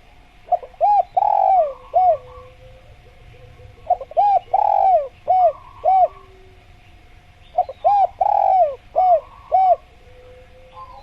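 Spotted dove (tekukur) singing its cooing song three times, a few seconds apart. Each phrase is a run of four or five short, rounded coos with a longer, drawn-out coo second.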